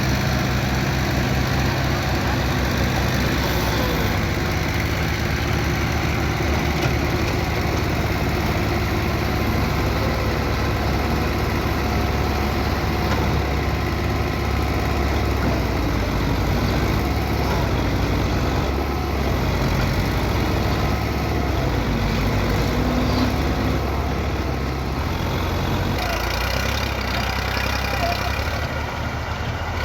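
Belarus tractor's diesel engine running steadily while hauling a trolley loaded with sugarcane.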